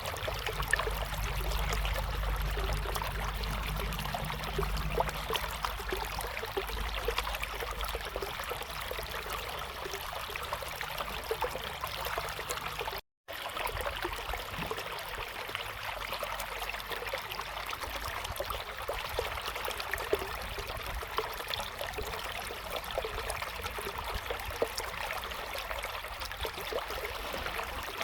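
River water flowing steadily over stones, a continuous babbling rush full of small splashes, with a low rumble under it for the first several seconds. The sound cuts out completely for a split second about halfway through.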